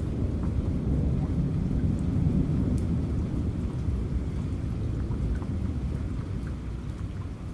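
Low rumble of thunder that swells about two seconds in and slowly eases, over steady rain with scattered raindrop ticks.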